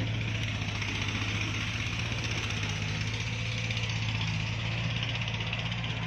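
A farm tractor's diesel engine running steadily at a constant pitch, with a fast even firing pulse.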